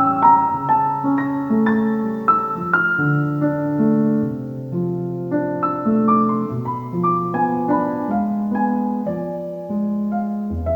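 Solo piano playing a calm piece, single notes struck one after another over sustained lower notes.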